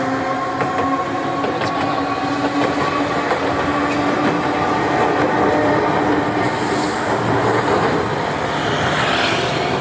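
Enoshima Electric Railway (Enoden) train running past on the track: a steady motor whine over the rumble and clatter of wheels on rails, with a rising hiss near the end.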